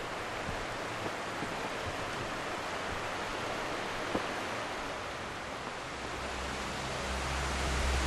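Steady rush of river water flowing past. A low rumble builds near the end.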